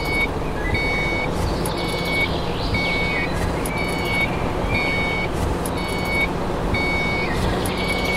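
Reversing alarm beeping steadily, a single high tone repeated a little more than once a second, over the steady noise of a running motor.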